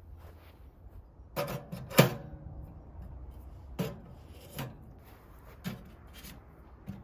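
Parts of a wood-burning stove being handled: about six separate knocks and clanks, the loudest about two seconds in with a brief metallic ring.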